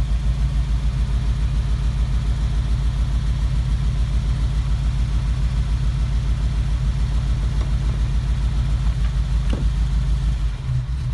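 1969 Volkswagen Bus's air-cooled flat-four engine running steadily just after a cold start, with an even low pulsing beat. Its sound drops a little near the end.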